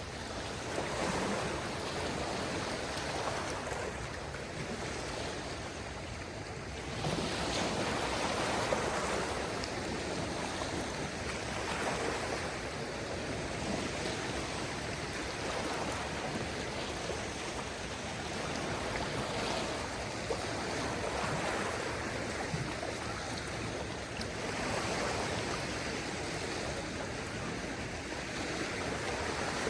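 Small waves on a calm sea washing onto the shore: a steady wash of water noise that swells and eases every few seconds.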